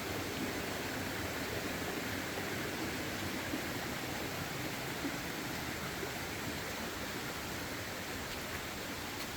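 Steady rushing noise with no tone or rhythm, and a couple of faint clicks.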